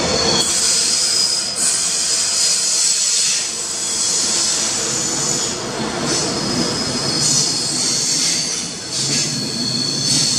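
Deutsche Bahn ICE high-speed train rolling slowly along a station platform, with high-pitched metallic squealing from its running gear that comes and goes over the rumble of the train.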